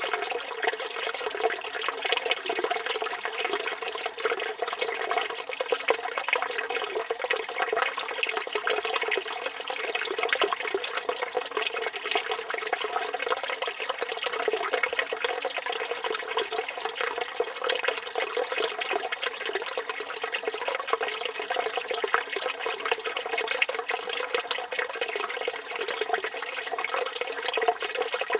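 Water from a village fountain spout pouring steadily and splashing into the stone basin below.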